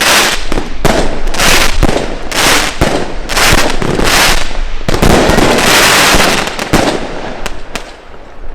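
Consumer compound firework box (a 144-shot World's Toughest Firework 'Dragon Darkness' cake) firing in rapid succession: sharp launch shots, most about half a second apart, each followed by a burst. A longer burst comes about five seconds in, and the firing thins out near the end.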